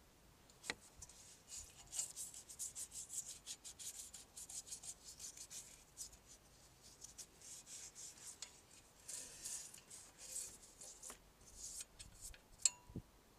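An old toothbrush scrubbing a motorbike exhaust pipe with bleach: quick, scratchy back-and-forth strokes of bristles on the metal pipe in two spells with a short pause between, and a sharp click near the start and again near the end.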